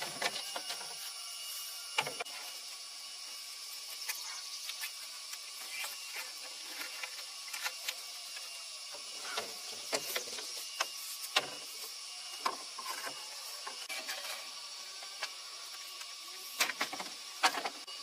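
Scattered light knocks and clicks at irregular moments over a steady high hiss, with clusters of sharper knocks about two seconds in, around ten to eleven seconds, and near the end.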